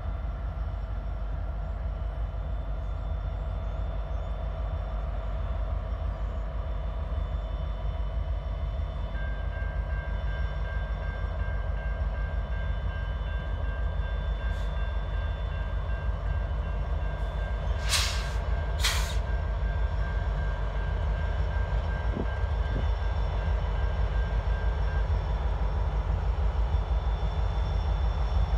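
Norfolk Southern freight train's diesel locomotives approaching, their engines making a steady low rumble that slowly grows louder as the train nears.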